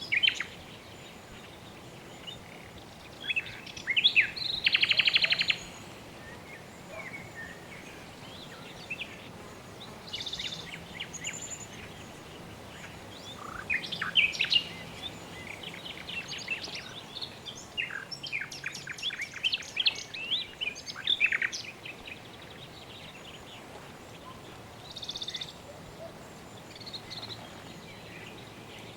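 Birds chirping and calling: scattered short chirps and trills, a fast buzzy trill about four seconds in and a busy stretch of song in the middle, over a steady faint background hiss.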